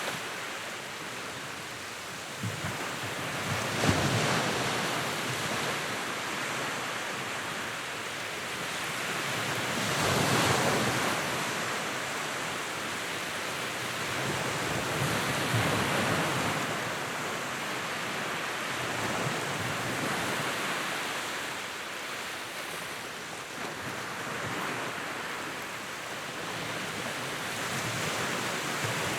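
Wood fire burning in a fireplace: a steady rushing hiss that swells and eases, with a few crackles and pops, the loudest about four seconds in and another swell around ten seconds.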